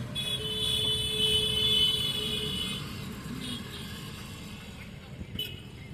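Highway traffic rumble with a vehicle horn held for about two and a half seconds near the start, then two short toots.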